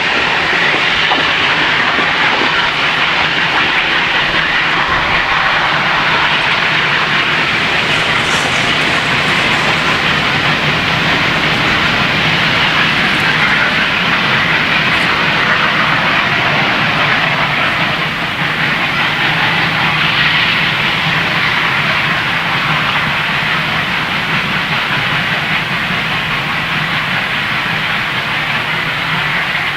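Steam-hauled train running steadily along the track, wheels on rails giving a continuous loud noise, with a brief high-pitched sound about eight seconds in.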